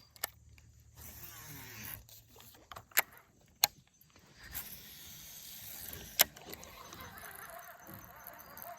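Fishing reel and rod being worked on a cast and retrieve, a low mechanical whirring with a few sharp clicks, the loudest about three, three and a half and six seconds in.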